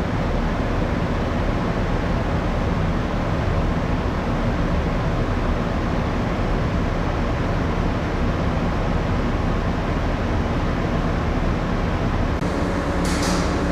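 Steady machinery and ventilation hum inside a moored ship, with several low steady tones. Just after 12 s the hum changes pitch, and about a second later there is a brief high rattle.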